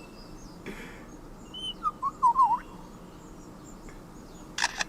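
Superb lyrebird singing: a few short whistled chirps near the middle, then a quick burst of sharp clicks near the end, its imitation of a camera shutter.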